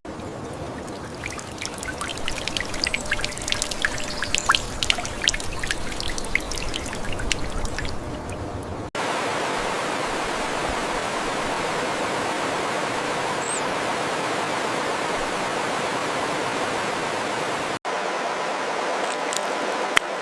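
Running water in three cut-together stretches: first a trickle with many scattered drips and clicks, then a steady, even rush of flowing water like a stream, and a similar rush after a second cut near the end.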